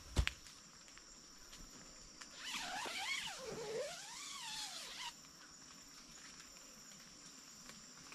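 Steady high-pitched drone of forest insects, with a couple of sharp knocks at the very start. From about two and a half seconds in, a louder wavering call glides down and back up for nearly three seconds, then stops abruptly.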